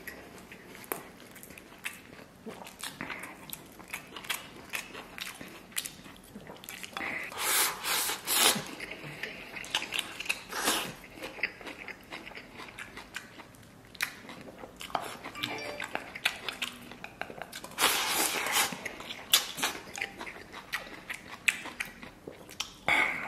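Close-miked eating: a man chewing mouthfuls of rice and bok choy, shovelled from a stainless steel bowl with chopsticks. There are many short clicks, with louder noisy bursts of eating about a third of the way in and again about three quarters in.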